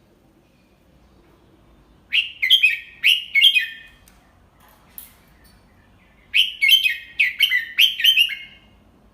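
Red-whiskered bulbul singing: two quick phrases of several rapid notes each, a few seconds apart, with a single short click between them.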